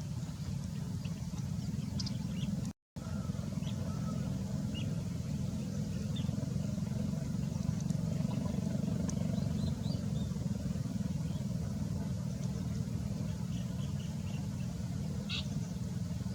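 A steady low rumble with faint, scattered high bird chirps over it, broken by a brief dropout about three seconds in.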